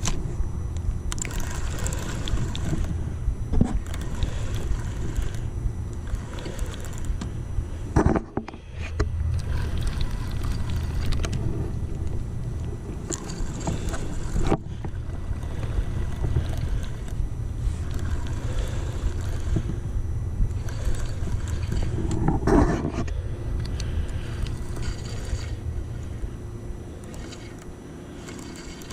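Wind buffeting the microphone in a steady low rumble, with handling knocks and rustles, including a few sharp knocks about 8, 14 and 22 seconds in.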